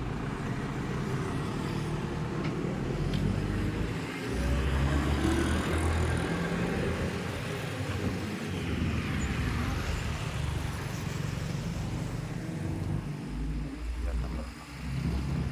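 A motor vehicle engine running, a low rumble with road traffic noise. It swells about four seconds in and again near the end.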